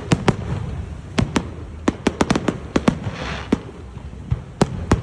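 Fireworks going off: a quick, irregular string of sharp bangs, some in close clusters, with a hissing crackle about three seconds in.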